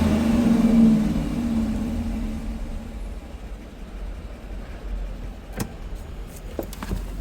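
Dodge Durango's 5.7 Hemi V8 revved, its pitch falling back over the first couple of seconds and settling to a low idle. A few sharp clicks come near the end. The engine is being run to listen for a tick that the owner suspects is an exhaust leak.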